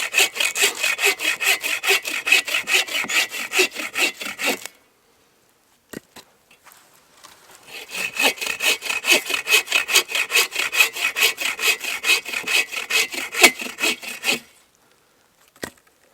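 A hand saw cutting through wood in quick, even strokes, about four a second. There are two bouts with a pause of a few seconds between them.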